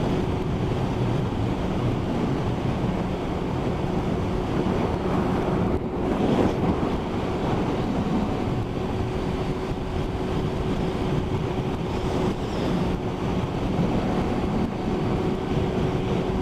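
Motorcycle riding at motorway speed in heavy rain, heard through the rider's camera: steady wind rush on the microphone and hiss of tyre spray over a constant engine note, with a brief louder gust about six seconds in.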